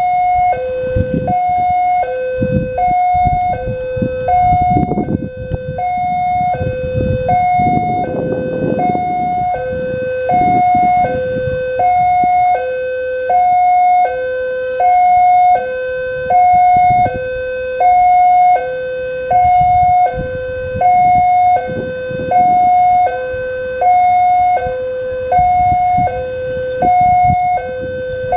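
Indonesian railway level-crossing warning alarm: an electronic two-tone signal alternating steadily between a higher and a lower note, each held about three-quarters of a second. It is the signal that a train is approaching and the barriers are down. A low rumble runs underneath, strongest in the first ten seconds or so.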